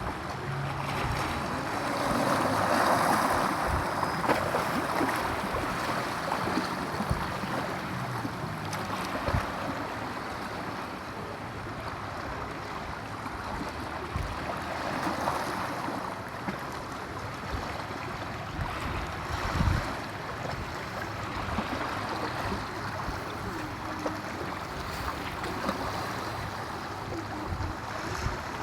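Waves washing on a shore with wind, the surf swelling and easing every several seconds, and a few soft low thumps.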